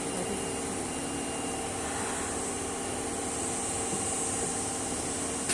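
Osaka Metro 22 series subway train standing at a station with its doors open: the steady hum and hiss of its air conditioning and auxiliary equipment, with no traction motor sound.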